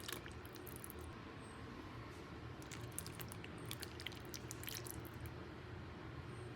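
Faint wet, squishy handling sounds of food being prepared by hand, with scattered light clicks, most of them bunched near the middle, over a low steady hum.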